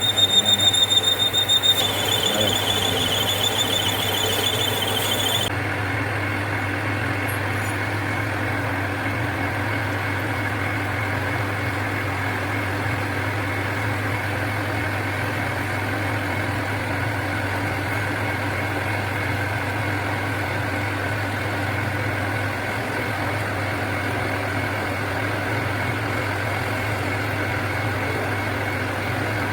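Machining a mini turbojet's turbine shaft: a high-pitched squeal from the cutting, stepping slightly lower about two seconds in and stopping after about five and a half seconds. The machine then runs on with a steady hum.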